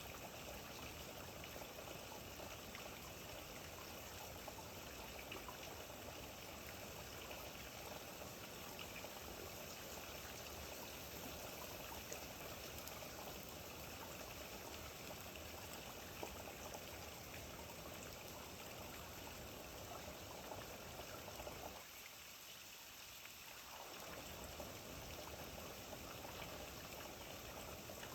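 Steady rain falling: an even hiss with scattered drop ticks. The lower part briefly drops away a little over twenty seconds in.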